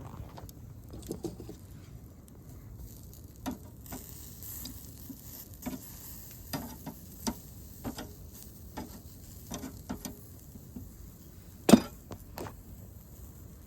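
Food sizzling in a pan, a steady hiss, with scattered sharp clicks and knocks through it and one louder knock near the end.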